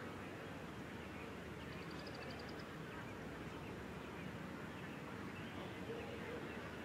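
Outdoor background noise, with a small bird's brief high trill of about ten quick notes about two seconds in.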